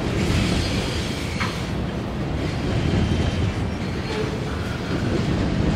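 Freight train of tank cars rolling past, with a steady rumble and clatter of the cars. A faint thin wheel squeal comes through about halfway through.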